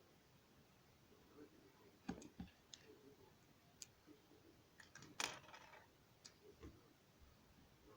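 Faint, scattered clicks and taps of plastic LEGO pieces being handled, about half a dozen, the loudest about five seconds in.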